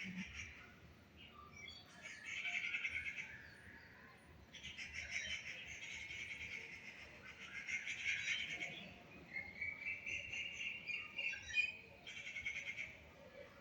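A parrot calling in bouts of rapid, shrill chirps, several runs of a few seconds each with short pauses between.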